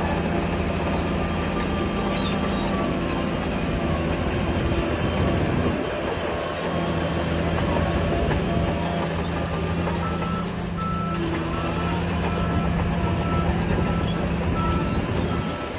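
Heavy diesel earthmoving machinery running steadily. From past the middle, a backup alarm beeps at a regular pace over the engine.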